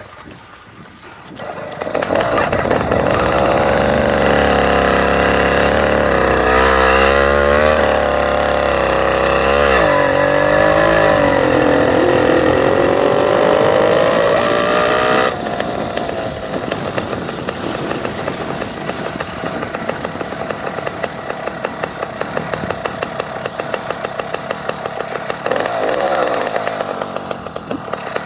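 Motorcycle engine running under way, its pitch rising and falling as it revs. About halfway through it suddenly drops to a lower, steadier beat.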